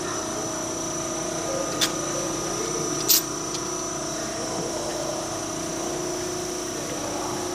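Steady hum of shop machinery running, with two sharp metallic clicks about two and three seconds in, the second one louder.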